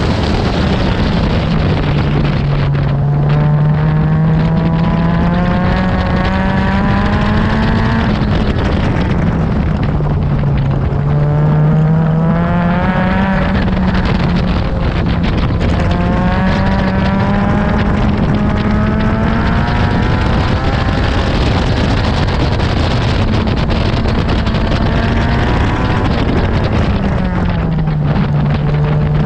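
Honda K24 inline-four engine of an Exocet track car under hard acceleration: its pitch climbs steadily several times, dropping back between each climb as the car shifts or slows for corners.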